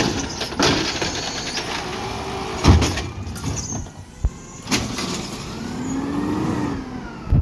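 Garbage truck at work: the truck runs with clanks and knocks, a heavy bang a little under three seconds in, and a whine that rises and then falls near the end.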